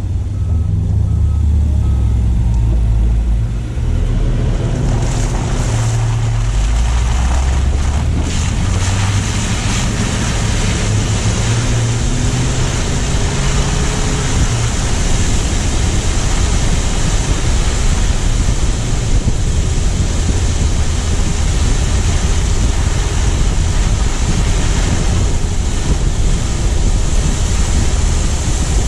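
A car driving on city streets: a low engine hum with road and tyre noise, and wind on the microphone. After about fourteen seconds the hum fades into a steady rushing noise.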